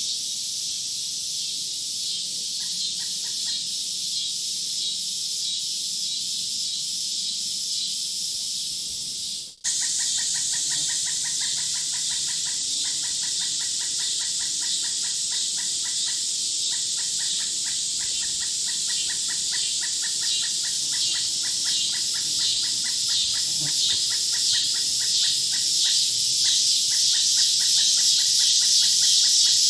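Woods ambience: a steady high chorus of insects with birds calling. After a brief dropout about ten seconds in, a call of rapidly repeated short notes runs on.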